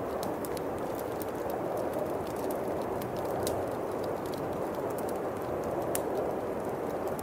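Winter wind blowing steadily, with a bonfire crackling over it in scattered sharp pops.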